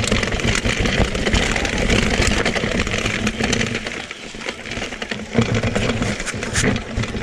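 Mountain bike riding over a rough trail: steady tyre and drivetrain noise with a low rumble and many small knocks and rattles.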